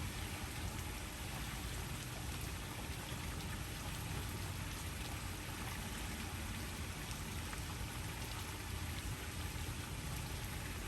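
Steady, even rush of falling water with fine pattering, unchanging throughout.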